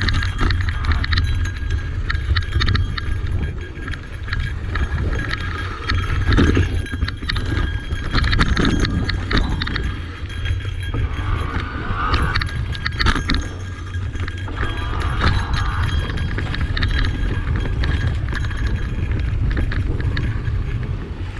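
Electric mountain bike rolling over a rough, rocky dirt trail: irregular clatter and knocks from the tyres and the rattling bike, over a steady rumble of wind on the microphone.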